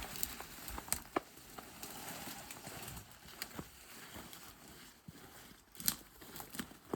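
Irregular knocks, snaps and rustling of branches and deadfall being handled while clearing a trail, with a sharp crack about a second in and another near the end.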